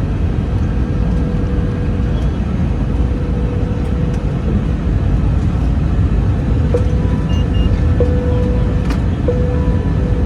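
Steady cabin noise of an Airbus A321-200 in flight: a loud low rush of airflow and engines with a steady hum-like tone running through it. A few faint clicks and brief higher tones in the second half.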